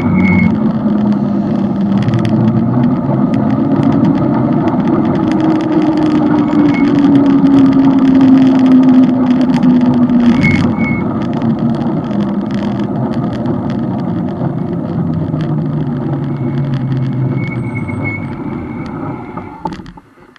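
Motorcycle engine running under way, its note falling, rising and falling again as the speed changes, under heavy wind rush; the sound drops away abruptly near the end.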